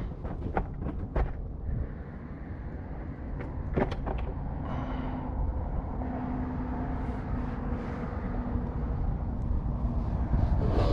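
A steady low rumble with a faint engine-like hum through the middle, and a few sharp clicks in the first half.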